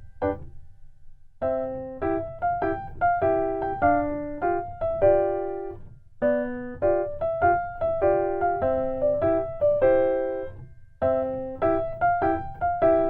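Light, bouncy background piano music: a melody of short, separate notes over a simple accompaniment, with a brief pause about a second in.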